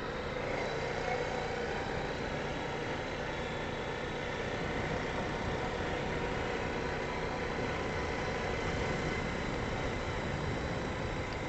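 ATV (four-wheeler) engine running steadily at low, even revs, like an idle.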